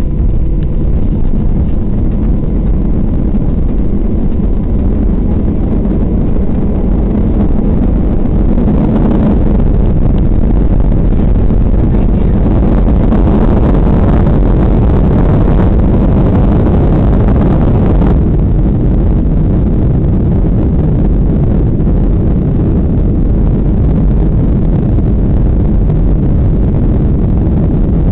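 Boeing 737-800's CFM56-7B engines at takeoff thrust, heard from inside the cabin: a loud, steady rumble of the takeoff run. A hissier layer swells from about nine seconds in and cuts off abruptly around eighteen seconds.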